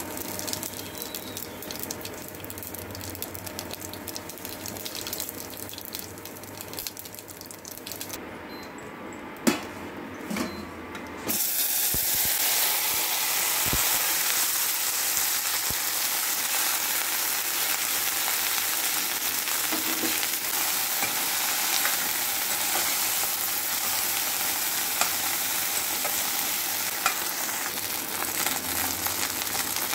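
Hot oil sizzling in a stainless steel pan as whole spice seeds fry, with a couple of sharp knocks of a utensil against the pan. About eleven seconds in, the sizzle jumps suddenly louder and denser as chopped okra goes into the hot oil, and the okra keeps frying with a steady sizzle.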